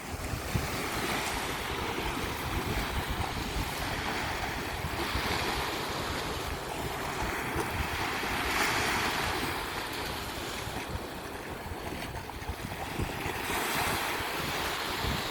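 Sea waves washing onto a beach, swelling and ebbing in slow surges every few seconds, with wind buffeting the microphone.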